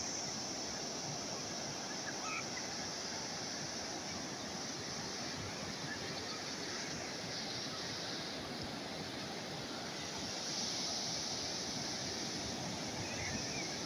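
Calm sea waves washing steadily on the shore, swelling slightly about ten seconds in.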